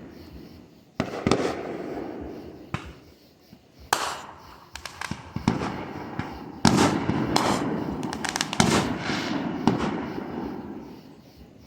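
Fireworks going off: a string of about ten sharp bangs at uneven intervals, each trailing a rumbling echo. The bangs die away near the end.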